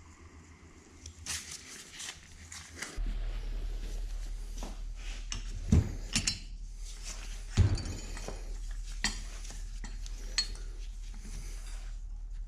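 Metal parts and hand tools clinking and knocking during reassembly of a Bridgeport milling-machine head's bearing assembly, with two heavier knocks in the middle. A low hum comes in about three seconds in.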